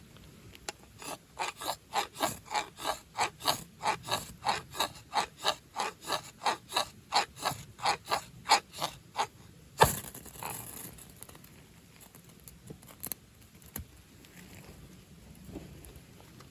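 A hand saw cutting through a piece of firewood with quick, even rasping strokes, about three a second, then a sharp crack as the cut piece breaks off, followed by a few faint ticks.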